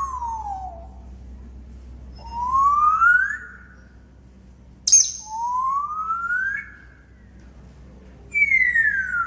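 African grey parrot whistling long, pure sliding notes: a falling whistle fading out at the start, rising whistles about two and five seconds in, and another falling whistle near the end. A short sharp click comes just before the second rising whistle.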